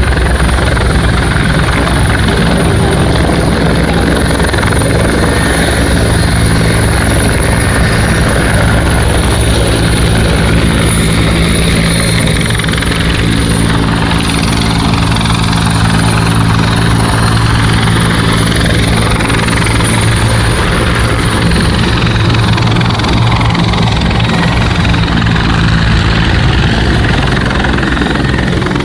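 Bell 412EP helicopter running loud and steady, its rotor beat low with a thin high whine above it. Around the middle the tone sweeps slowly up and down, then settles again.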